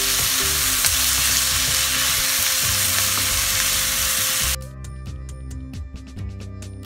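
Chopped tomatoes and onions sizzling in a hot frying pan while a wooden spoon stirs them. The sizzle cuts off suddenly about four and a half seconds in, leaving only background music.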